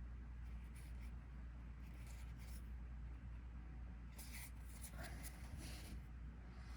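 Trading cards being handled: faint brushes and slides of card stock in several short spells, the clearest about four to six seconds in, over a steady low hum.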